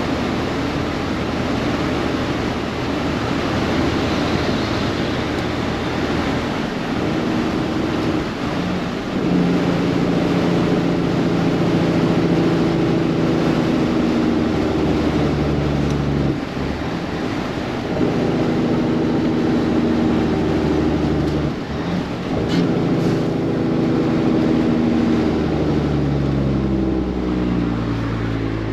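A vehicle's engine pulling under way, its pitch climbing and dropping back three times as it shifts up through the gears, then falling off as it slows near the end.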